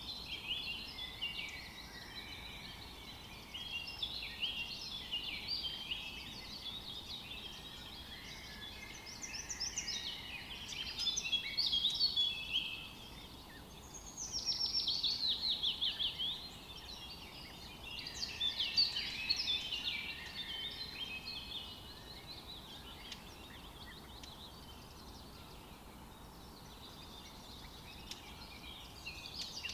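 Songbirds singing in a chorus of overlapping quick chirps and trills. The loudest phrase is a fast run of notes about 14 seconds in, and the singing thins out after about 21 seconds.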